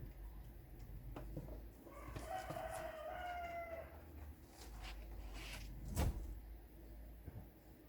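A rooster crowing once, a call of nearly two seconds starting about two seconds in, over a low background rumble. A sharp knock comes about six seconds in, with a few lighter clicks before the crow.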